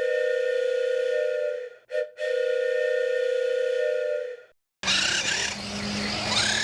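A steady electronic tone with a slight waver sounds for about two seconds, breaks off briefly, then sounds again for about two seconds and stops. After a short silence comes a steady low hum with a few rising-and-falling whines.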